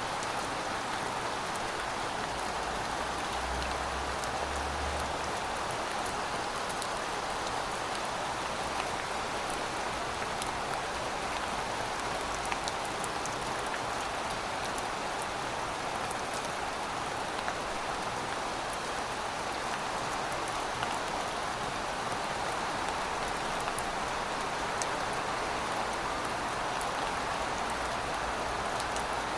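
Heavy rain falling steadily, a dense even hiss with individual drops ticking on surfaces.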